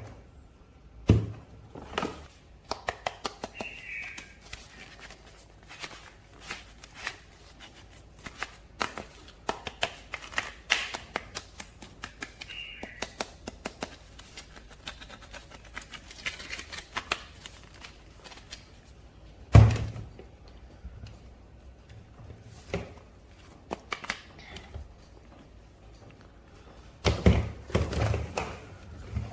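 Hands unboxing and handling a plastic toy figure and its packaging: many small irregular clicks and taps with brief rustles. There are a few louder thunks, the heaviest about two-thirds of the way through.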